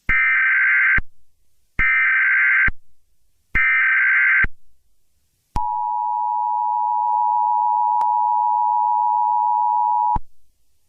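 Emergency Alert System tones: three bursts of the SAME digital header, each about a second long, followed by the EAS two-tone attention signal held steadily for about four and a half seconds before cutting off suddenly.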